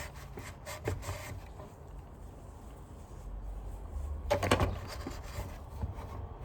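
Hands handling and scrubbing parts of a vacuum cleaner: scattered plastic clicks and rubbing, with a short cluster of knocks about four and a half seconds in.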